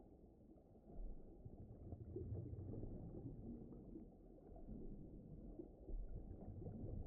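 Faint, muffled low rumble that swells and eases unevenly, with no clear tone or rhythm.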